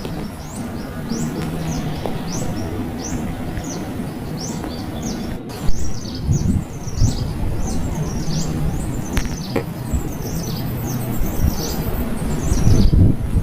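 Small birds chirping rapidly: a dense run of short, high-pitched chirps over a low steady hum, with a single sharp knock near the middle.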